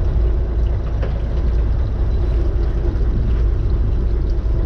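A fishing boat's engine running steadily, giving a continuous low rumble with a faint steady hum above it.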